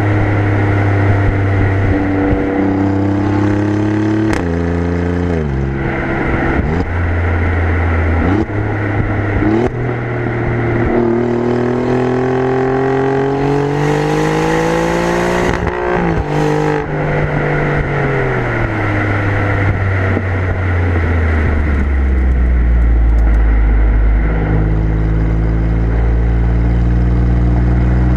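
Exhaust of an Alfa Romeo Giulia Quadrifoglio's twin-turbo V6, heard close at the rear bumper while driving. The engine note rises through the revs and drops at several gear changes, with one long pull before an upshift about halfway through, then falls away as the car slows and settles to a low steady note near the end.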